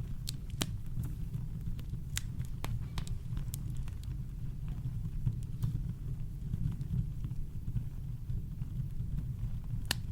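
Campfire crackling: scattered sharp pops and snaps, the loudest one near the end, over a steady deep low rumble of brown noise.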